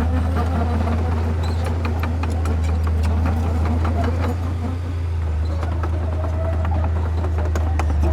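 Heavy diesel earthmoving machine running steadily with a deep drone, with frequent sharp clanks and rattles over it.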